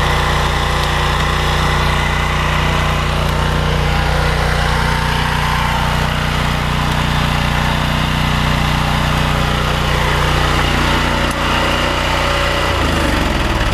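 Loncin 14 horsepower petrol engine of a belt-driven pressure washer running steadily at speed. Near the end its pitch falls as it winds down.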